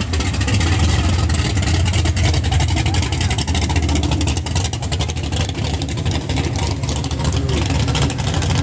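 Supercharged V8 of a Chevy II Nova running at low speed as the car rolls by, with a deep, steady exhaust note.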